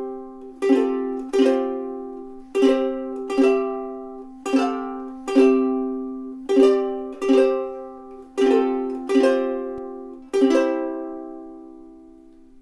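Snail UKS-220 soprano ukulele strumming chords, mostly in pairs of strums, eleven in all, each left to ring and decay. The last chord, a different one, about two seconds before the end, is allowed to ring out and fade away.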